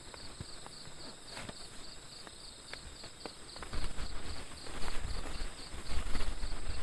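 Forest insects calling: a steady high trill with a fast, even pulsing over it, broken by scattered light clicks and knocks. About halfway through, a low rumble comes in and grows louder.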